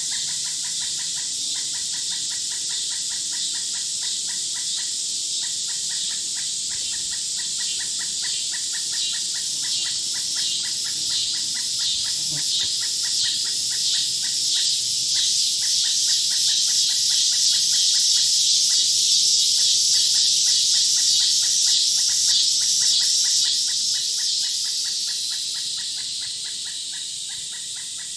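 Insect chorus: a steady high buzz with rapid regular pulsing, one buzzing call swelling over several seconds and fading near the end.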